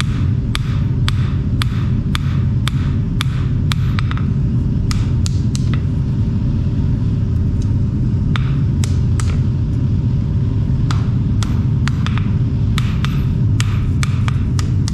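Hammer blows on steel over an anvil, sharp ringing strikes about three a second in runs broken by pauses of a second or two, over a steady low rumble.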